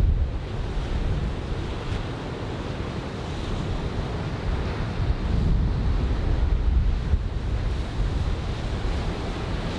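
Surf breaking and washing ashore under a steady hiss, with gusty wind buffeting the microphone in low rumbles that ease after the first second.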